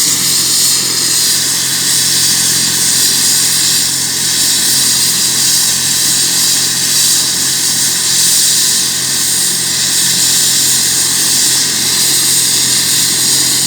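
Medical helicopter's turbine engine and rotor running, a loud steady whine and rush.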